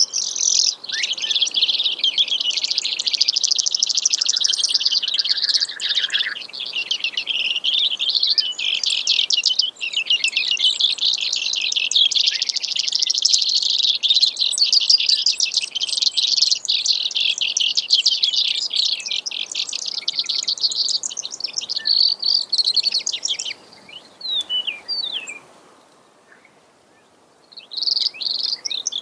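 Brewer's sparrow singing: a long, unbroken run of rapid, high trills that keep changing speed and pitch. Near the end it breaks into a few scattered single notes, falls silent briefly, then starts trilling again.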